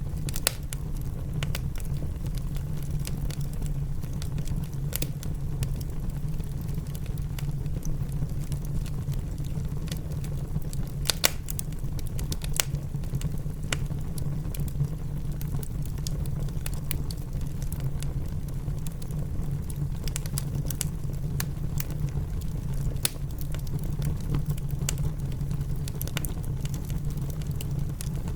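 Wood fire crackling in a fireplace, sharp pops every second or so over a steady low rumble of rain.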